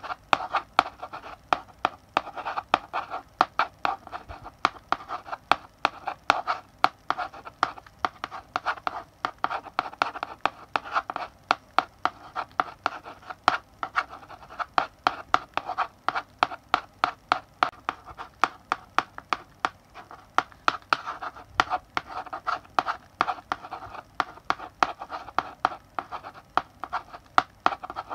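Chalk writing on a blackboard: sharp taps several times a second as the chalk strikes the board, with scratchy strokes between them, coming in short bursts of writing.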